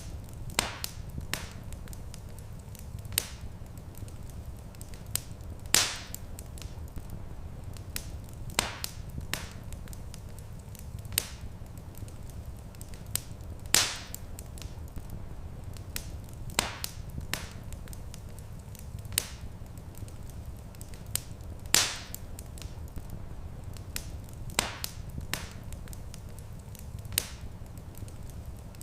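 Wood fire crackling in a fireplace: sharp pops and snaps every second or two, a few much louder than the rest, over a steady low rumble.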